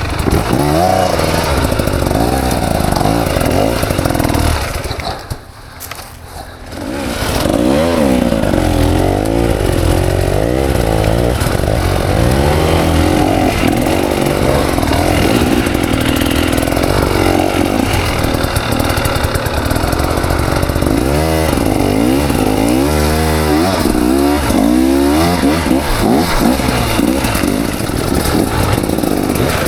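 KTM 300 XC single-cylinder two-stroke dirt bike engine revving up and down over and over under load. About five seconds in it falls much quieter for a second or two, then picks up again.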